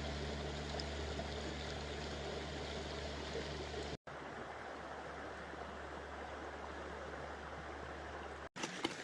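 Steady rushing of a running creek, with a low steady hum underneath; the sound drops out for an instant about four seconds in and again near the end.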